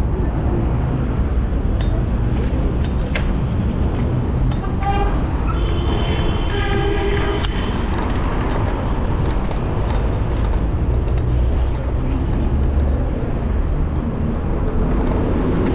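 Street traffic with a steady low rumble of wind on the microphone while riding. A vehicle horn honks briefly about five seconds in, then again for about a second and a half.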